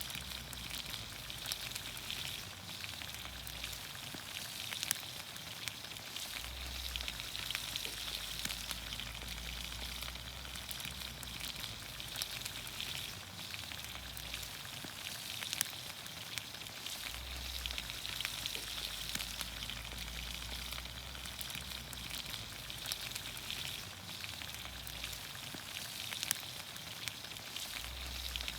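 Vegetables sizzling steadily in olive oil in a pan over a campfire, a continuous frying hiss with scattered sharp pops and crackles throughout.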